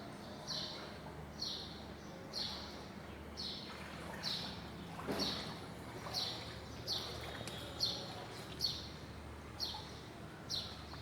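A bird calling, one short high chirp repeated about once a second, each note dropping slightly in pitch, over a low steady hum.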